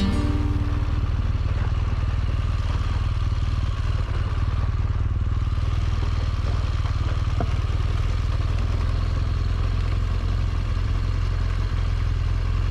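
BMW R1200GS flat-twin motorcycle running steadily on the move, its engine note mixed with a steady rush of noise.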